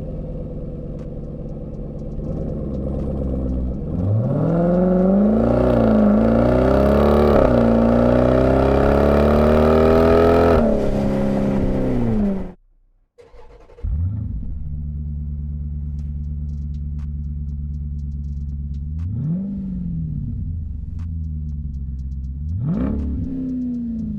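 Dodge Durango SRT's 6.4-litre HEMI V8 through a CORSA stainless cat-back exhaust: it pulls hard with the pitch climbing for several seconds, dipping once or twice at the gear changes, then lifts off. After a brief break it settles to a steady idle and is revved twice in short blips.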